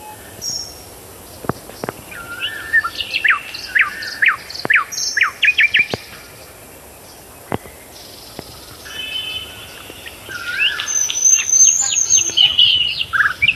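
Songbirds chirping and calling in quick runs of short, sharp, sweeping notes, busiest in two stretches, early and again near the end, with a few faint clicks between.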